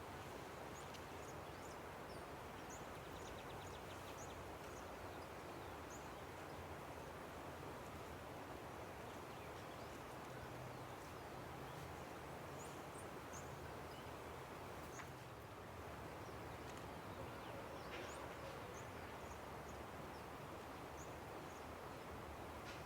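Steady rush of a river, with small birds chirping in short, high calls throughout.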